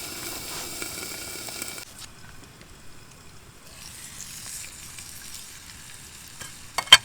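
Food frying and sizzling, which drops off abruptly about two seconds in to a fainter sizzle. A single sharp clack near the end.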